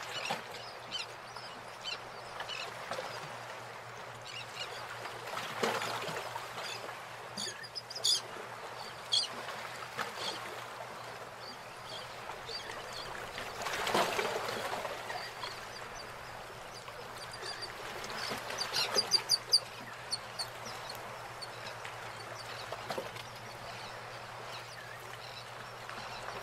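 Outdoor ambience: a steady hiss with scattered bird calls, including a few quick runs of sharp calls, the loudest run about three quarters of the way through.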